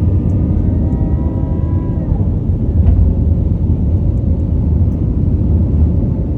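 Airplane taking off: a loud, steady low rumble of the engines, with a whine of several tones that drops in pitch and fades about two seconds in.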